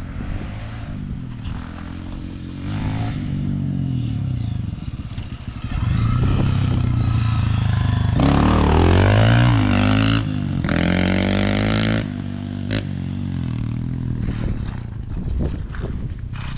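Dirt bike engine running and revving up and down, louder between about six and twelve seconds in, with a few short knocks.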